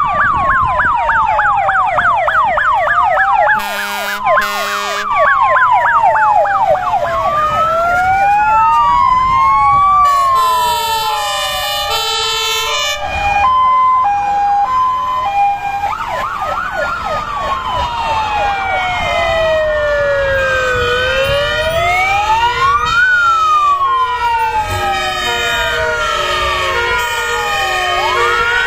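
Many fire engine sirens sounding at once as a convoy of fire trucks drives past. Slow rising and falling wails overlap fast yelping sweeps and stepped two-tone sirens. There are two short blasts about four seconds in, and truck engines run underneath.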